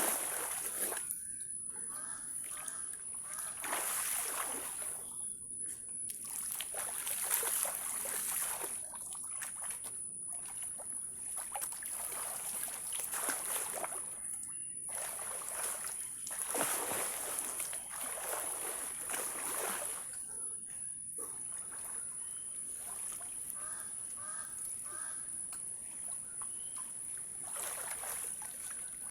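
River water splashing and sloshing in uneven surges every second or few, over a steady high-pitched hiss.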